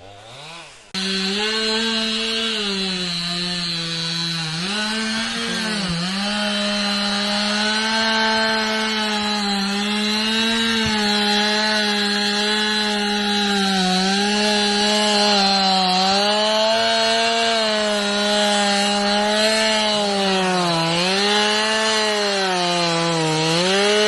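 Chainsaw engine running at high revs while cutting wood. It starts suddenly about a second in, and its pitch sags every few seconds as the chain bites under load, then recovers.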